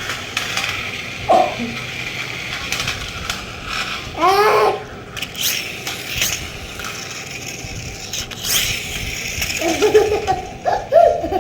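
Whir of a toy remote-control car running across the floor, with clicks of it knocking about. Children babble and laugh over it, with one short squeal about four seconds in.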